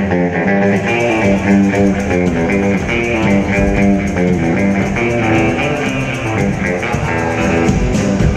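Rockabilly band playing an instrumental break after a sung verse, with a guitar carrying quick melodic lines over a steady beat.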